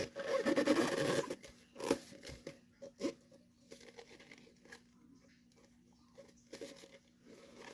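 Paper crinkling and rustling as a freshly glued, rolled paper tube is handled, loudest over the first second or so, followed by a few light taps and quieter handling noises.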